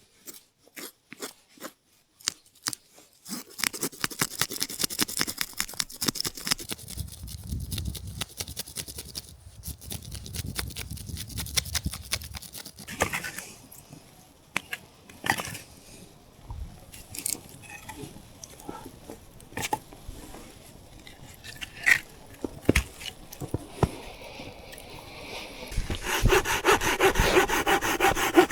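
Scattered knocks, clicks and scrapes of wood being handled, then near the end a hand saw starts cutting wood in quick, steady back-and-forth strokes.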